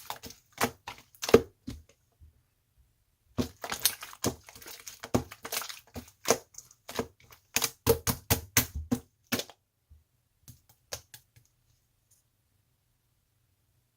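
Slime being squeezed and pressed by hand, giving quick runs of sharp clicking pops, with a short pause about two seconds in; the pops thin out and stop around eleven seconds in.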